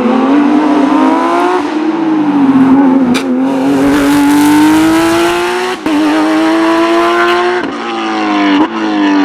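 Porsche race car's engine under hard acceleration, its pitch climbing steadily, then dropping sharply at three quick upshifts in the second half.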